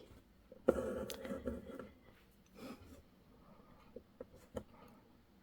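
Hand embroidery with needle and thread: a scratchy rustle of thread drawn through fabric about a second in, then a few light ticks.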